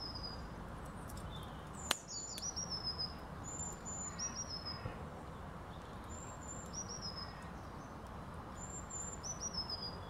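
A small songbird singing high, short phrases, each a brief high note followed by a quick run of falling notes, repeated several times about two seconds apart. A single sharp click sounds about two seconds in.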